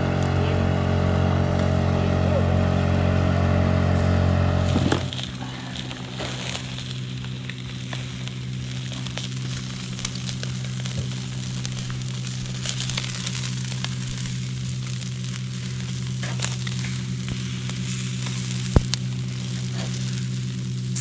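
Chicken frying and sizzling over a campfire, with scattered crackles and pops. For about the first five seconds a louder steady droning hum sits over it, then cuts off suddenly, leaving a softer steady hum beneath the sizzle.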